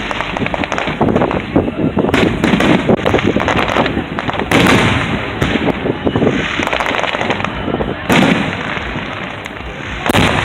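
Fireworks display: repeated loud booms of bursting shells, about five big ones, with dense crackling and popping between them.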